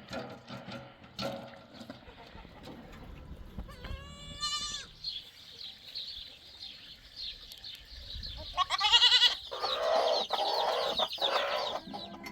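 Goats bleating in wavering calls, the loudest about nine seconds in and running on for about three seconds, over a steady high chirping.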